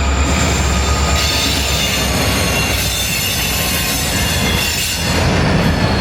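Train rolling past with its steel wheels squealing on the rail: several high steady squealing tones over a heavy low rumble.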